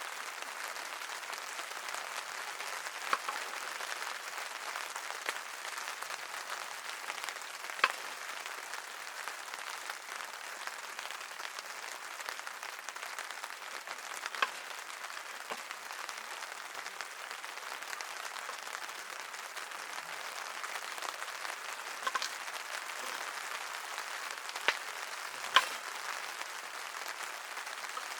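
Steady rain falling, an even hiss, with a few sharp single drops striking now and then.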